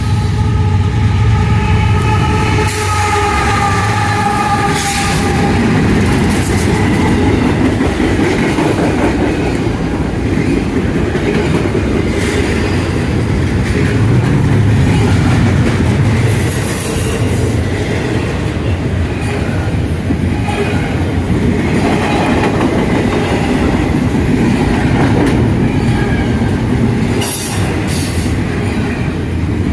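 CSX train passing close by: the locomotive horn sounds a chord for the first few seconds, then the heavy, steady rumble and clatter of the wheels over the rails runs on as the cars go by.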